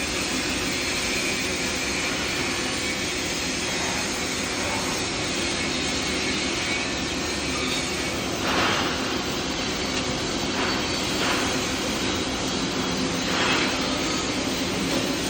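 Steady machine hum and hiss, with a few short louder rushes of noise a little past the middle and again near the end.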